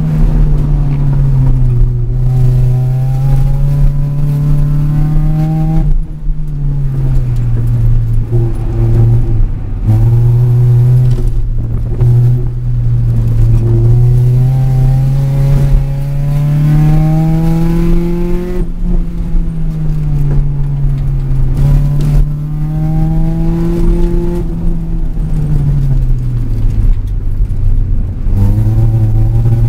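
Car engine heard from inside the cabin while being driven hard through an autocross course, its pitch climbing under acceleration and falling away as the driver lifts, over and over. There are several sudden drops in pitch, about a second in, around six and ten seconds in, and near the end.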